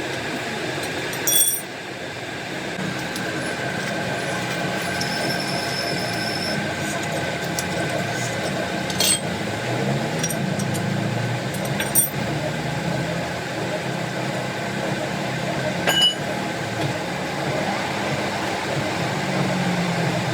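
Steady workshop machine noise with a few sharp metallic clinks.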